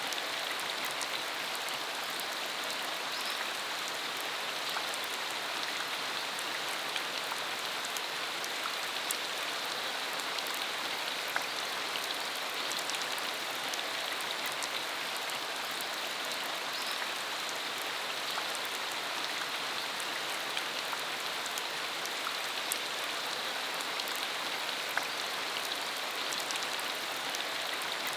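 Steady rain falling on a dirt road, an even hiss with scattered individual drop clicks.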